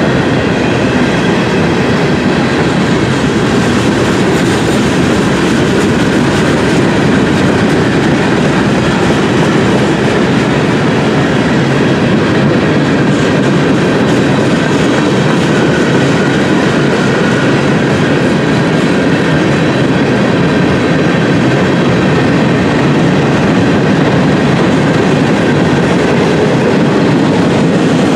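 Freight cars of a mixed train (hoppers, boxcars and tank cars) rolling steadily past at close range: a continuous loud rumble and clatter of steel wheels on the rails.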